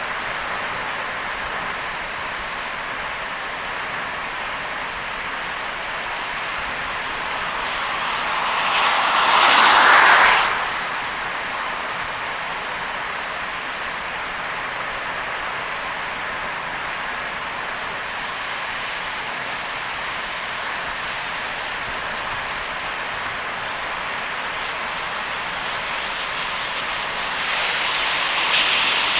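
Steady rushing noise of a car driving on a rain-soaked expressway, tyres on wet road and rain. About a third of the way in a louder rush swells up and cuts off sharply, and it starts to build again near the end.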